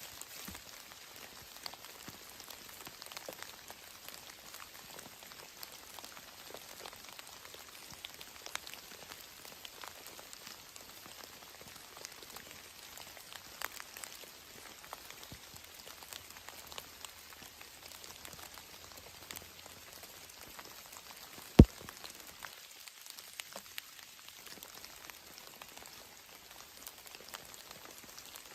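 Steady rain falling, with many irregular drop ticks. One sharp, much louder click or snap comes about three quarters of the way through.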